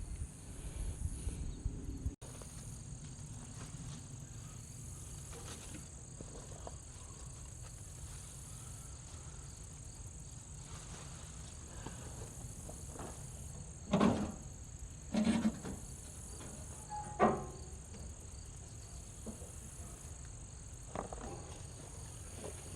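Steady chirring of crickets and other insects in the background, with a few short knocks or clanks near the middle.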